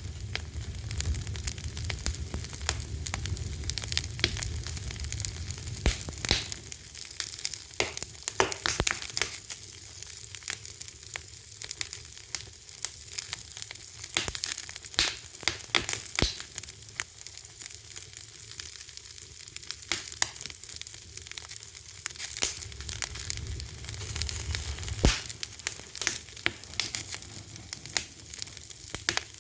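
Fire crackling: irregular sharp pops and snaps over a steady hiss, with a low rumble near the start and again for a few seconds in the last third.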